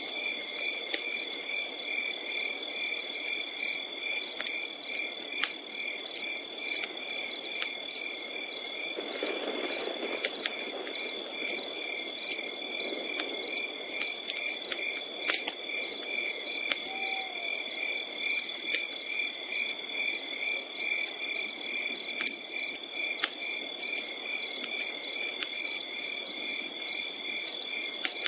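Crickets chirping in an even rhythm over a continuous high insect trill, with scattered sharp pops and crackles from a campfire.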